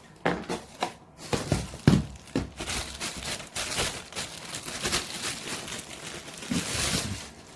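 Plastic packaging crinkling and rustling as it is handled, with scattered clicks and knocks.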